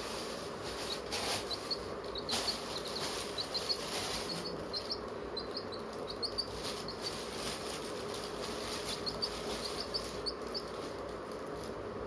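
Chicks peeping: many short, high, upward-flicking cheeps in irregular runs, over a steady background hiss and a few brief rustles.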